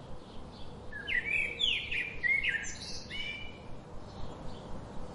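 A songbird singing a short, varied phrase of quick chirps and whistled notes, starting about a second in and lasting some two and a half seconds, with a few fainter calls after it.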